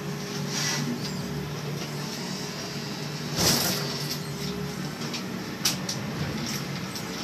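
Marine engine running with a steady low hum, with a short loud rush of noise about three and a half seconds in and a sharp click near the end.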